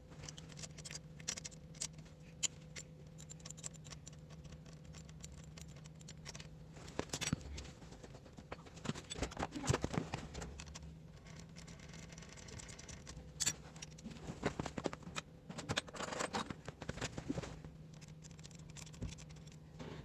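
Irregular small clicks, taps and scrapes of hand tools and metal parts being handled during motorcycle engine work, over a faint steady hum.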